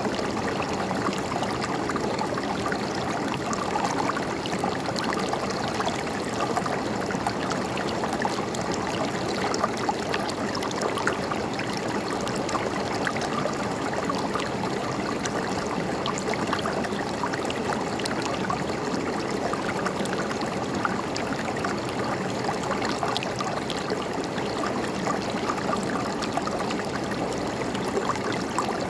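River water flowing and gurgling over rocks, a steady rushing babble.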